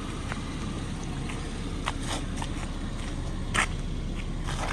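1992 Nissan 240SX's 2.4-litre four-cylinder engine idling steadily, still warming after a cold start. A few short clicks sound over it, the sharpest about three and a half seconds in.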